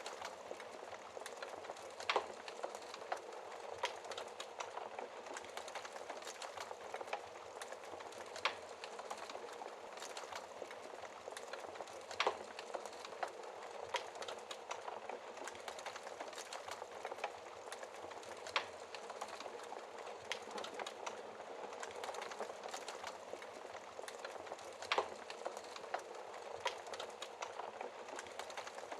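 Burning logs in a fireplace crackling: a steady soft hiss with frequent small pops and a few sharper snaps several seconds apart.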